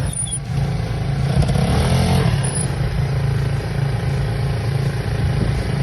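Quad bike engine running steadily, a low even drone with a slight swell about two seconds in.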